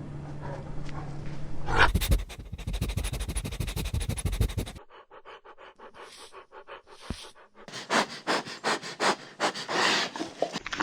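Puppy panting with rapid, quick breaths. It cuts off suddenly about halfway through and picks up again near the end.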